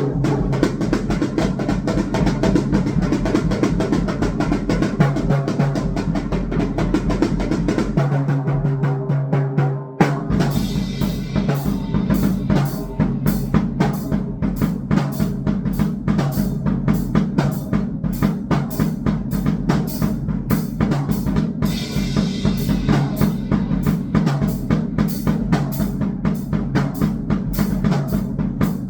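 Fast, dense drumming with bass drum and snare hits in an electronic noise piece, over a low steady drone. About ten seconds in it drops out briefly, then resumes with sharper, more spaced hits.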